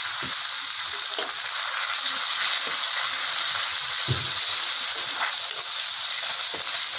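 Curry leaves, green chilli, ginger and spices sizzling steadily in hot fat in a kadai for a tempering, with a metal ladle knocking and scraping the pan a few times as it stirs.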